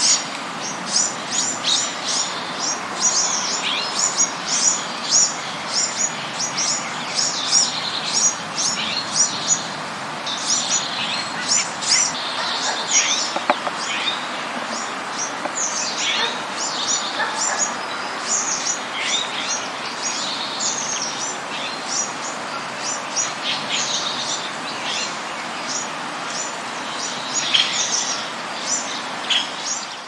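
Many small birds chirping continuously, short high chirps coming several times a second over a steady background hiss.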